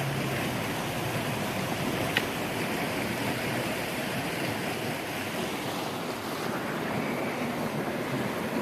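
Fast-running creek water rushing steadily, with a single sharp click about two seconds in.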